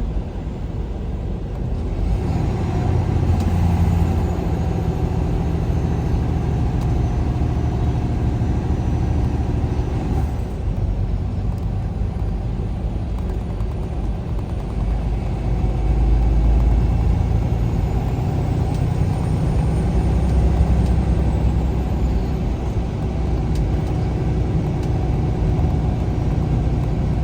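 Semi truck's diesel engine and road noise heard from inside the cab while driving, a steady low rumble whose engine note rises and falls several times as the truck changes speed.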